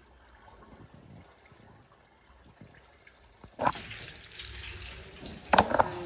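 Kitchen tap turned on about halfway through, water running steadily into a sink, with a few sharp knocks of kitchenware near the end.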